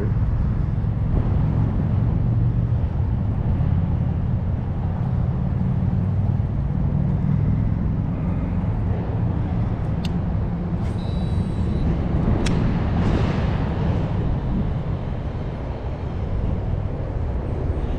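Steady low rumble throughout, with two sharp clicks in the middle.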